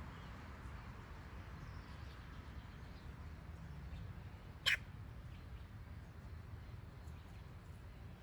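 One short, sharp animal call about halfway through, over a steady low background rumble.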